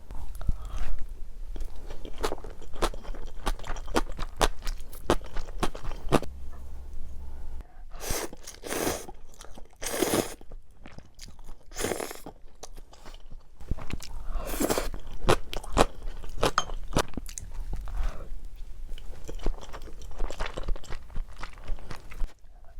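Close-miked eating sounds from a person chewing a meal of soy-sauce egg rice and cup ramen, with a run of wet mouth clicks. Several longer, louder noisy swells stand out partway through.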